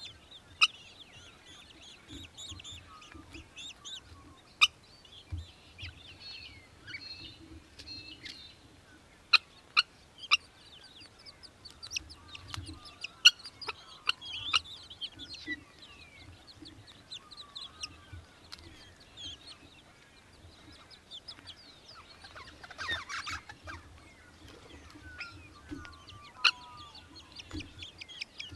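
Birds calling and chirping, with repeated short high notes and trills, a dense burst of chattering calls about 23 seconds in, and rapid repeated notes near the end. Sharp clicks stand out several times and are the loudest sounds.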